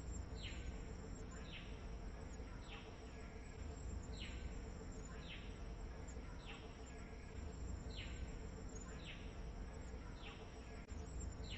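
An animal calling: a short falling note repeated about once a second, over a steady low rumble and hiss.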